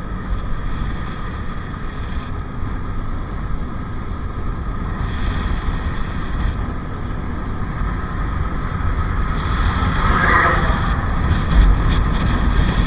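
Bajaj Pulsar RS 200's single-cylinder engine running steadily under way as the motorcycle is ridden. There is a short, brighter swell about ten seconds in.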